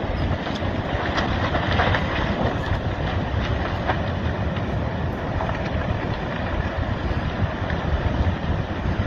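Wind on the microphone: a steady rushing noise, low and even, with a few faint clicks about one to four seconds in.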